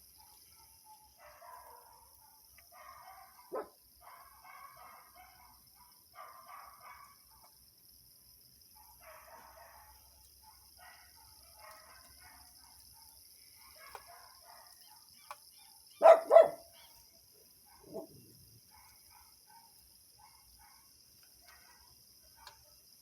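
Dogs barking repeatedly in the distance, with two loud, close barks about sixteen seconds in and another shortly after.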